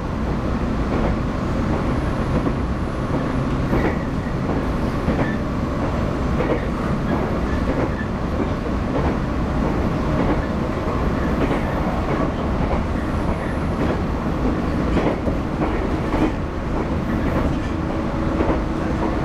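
Interior sound of a JR 115-series electric multiple unit running at speed: a steady rumble of wheels on rail with rail-joint clicks scattered through it.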